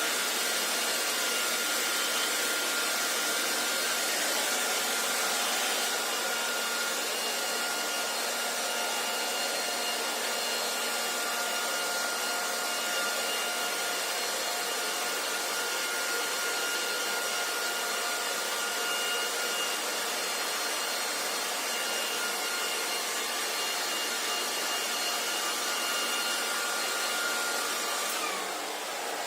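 Hair dryer blowing steadily: a rushing stream of air with a high motor whine over it. Near the end the whine falls in pitch and the sound gets slightly quieter.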